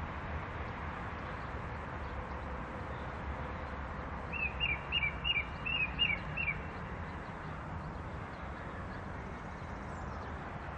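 A bird calling a quick run of about seven short, high, paired chirps about four seconds in, over steady background noise with a low hum.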